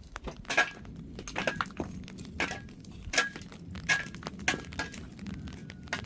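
A series of irregular sharp clicks and knocks, hard objects striking or being worked against each other, some with a brief faint ring after them.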